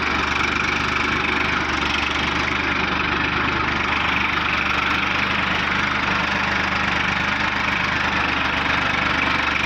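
Farmtrac tractor's diesel engine running steadily.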